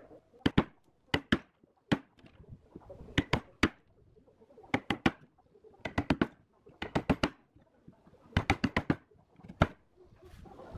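Hammer blows on wood, coming in quick bursts of two to five sharp knocks with short pauses between.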